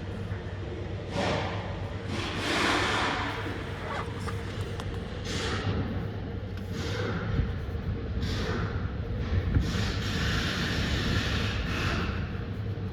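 Toyota 1NZ-FE 1.5-litre four-cylinder petrol engine running steadily at idle, with irregular patches of hissing noise coming and going over it.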